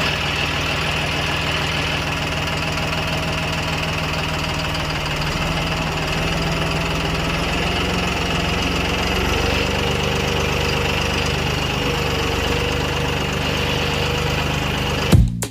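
Tractor engine idling steadily, a low, even diesel-like running note.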